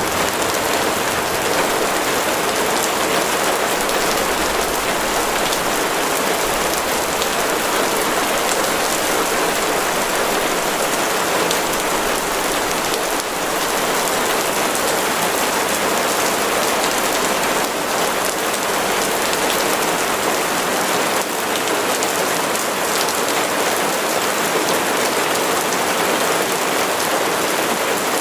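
Steady heavy rain falling on a surface, a dense even hiss of drops with no let-up.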